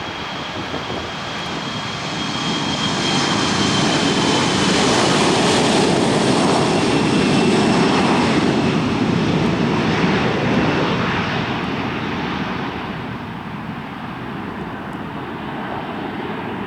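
Embraer E175 regional jet's twin GE CF34 turbofans at takeoff power as it rolls past. The sound swells to a loud peak over a few seconds and then fades, with a high whine that slowly falls in pitch.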